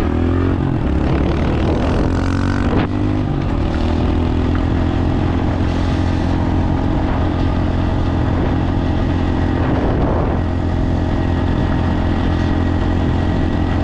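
Dirt bike engine accelerating with rising pitch, dropping briefly about three seconds in as the rider shifts up, then holding a steady high pitch as the bike cruises down the road.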